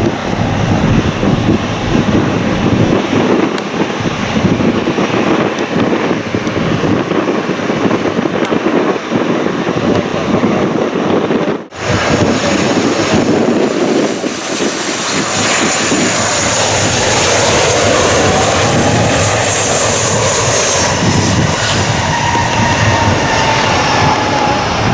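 Jet airliner engines running loud, mixed with wind on the microphone. The sound cuts off abruptly about halfway through and resumes, after which a high engine whine slowly falls in pitch.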